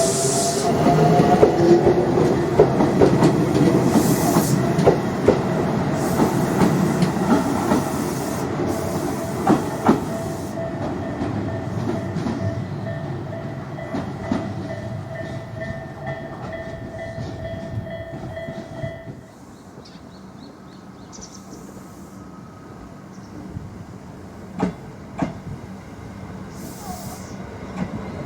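Tobu 20400 series electric train running, its Toyo GTO-VVVF inverter giving a steady whine over the running noise, with clicks from the rail joints. The whine cuts off about two-thirds of the way through, and the train's sound grows gradually fainter.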